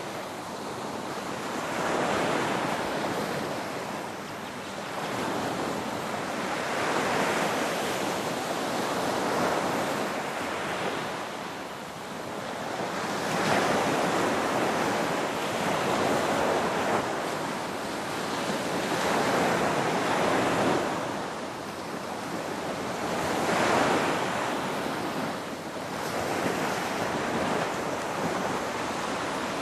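Ocean waves breaking and washing in: a steady rush of surf that swells and ebbs every few seconds.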